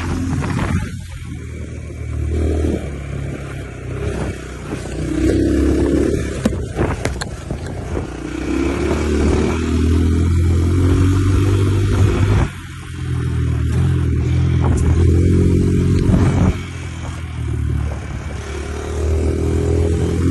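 Dirt bike engine running under a rider's throttle, its pitch rising and falling, with the engine note dropping away suddenly a few times, around a second in, about two-thirds through and again soon after.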